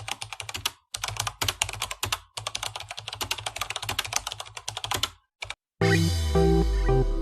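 Fast runs of sharp clicks or taps, several a second, broken by short pauses. Electronic music comes in near the end.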